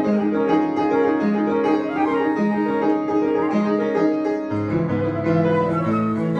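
Live jazz with piano, a steady flow of sustained, shifting chords and notes.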